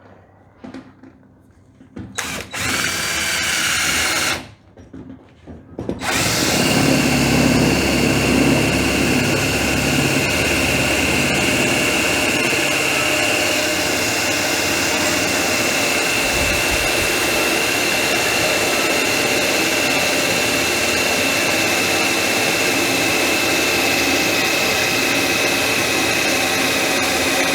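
Electric drill enlarging a pilot hole through thick steel with a larger bit. It runs briefly about two seconds in, then drills steadily from about six seconds in with a constant high whine.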